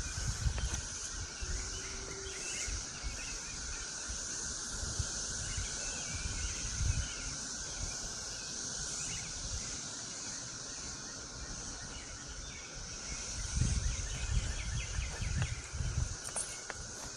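Chorus of cicadas droning steadily in the trees, a continuous high buzz with a lower hum beneath it. Low rumbles come and go, most strongly near the start and again about three-quarters of the way through.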